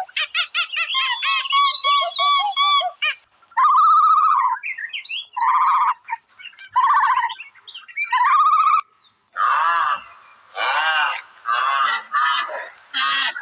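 Birds calling: repeated short, high, arching calls, breaking off briefly about nine seconds in and then coming thicker and overlapping.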